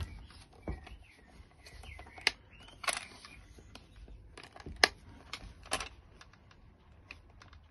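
Irregular sharp clicks and taps of small plastic and metal car parts and tools being handled during assembly, the loudest about two and five seconds in.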